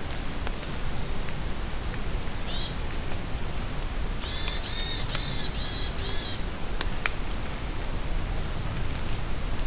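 Steady rain falling in a forest, with birds calling over it. A few faint short chirps come early, then a run of about four loud, harsh calls in the middle.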